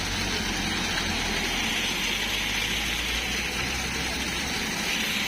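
Heavy rain pouring steadily, a dense even hiss, with a low rumble underneath.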